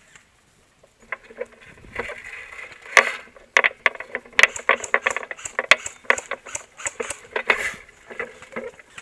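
A run of irregular clicks and knocks with rustling, starting about a second in.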